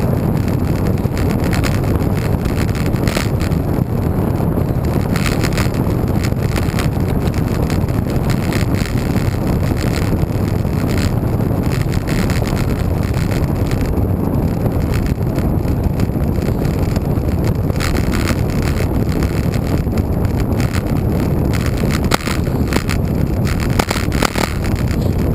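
Steady wind rush buffeting the microphone of a camera riding along on a moving road bike, with faint ticks and rattles now and then.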